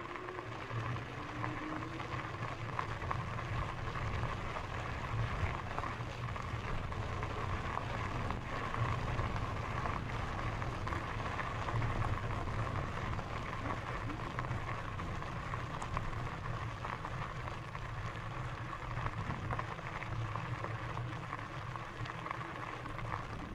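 Lectric XPEAK 2 e-bike riding steadily along a gravel trail: continuous tyre noise on the gravel with a steady hum from its motor.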